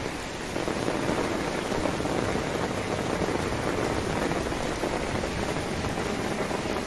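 Heavy rain pouring steadily, a dense even hiss of drops, a little louder from about half a second in.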